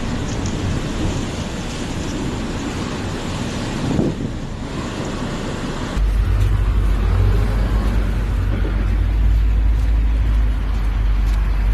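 Strong wind blowing in a snowstorm, a steady noisy rush; about halfway through the sound changes abruptly to a deep rumble of wind buffeting the microphone.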